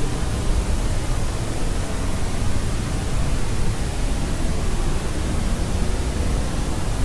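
Steady white noise with its weight in the low end: an even, unchanging rushing hiss.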